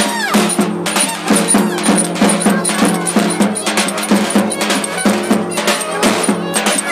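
Live Turkish wedding dance music: drums beating a quick, even rhythm under a sustained melody line, with a falling pitch slide right at the start.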